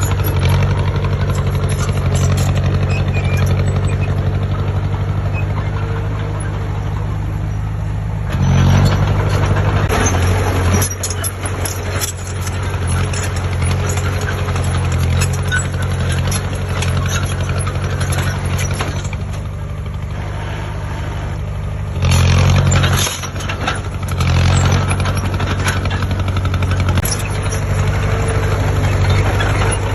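Heavy construction machine's diesel engine running steadily, rising in level briefly about eight seconds in and again around twenty-two seconds in, with intermittent clatter over it.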